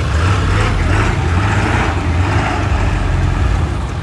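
Pickup truck engines and exhausts giving a steady, loud low rumble as trucks drive by.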